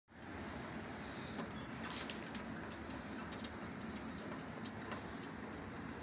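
Scattered short, high chirps of small birds over a steady faint hiss, with a few thin clicks between them.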